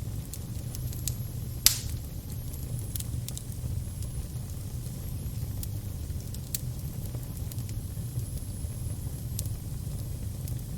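Fire crackling over a steady low rumble, with scattered sharp snaps and one loud pop a little under two seconds in.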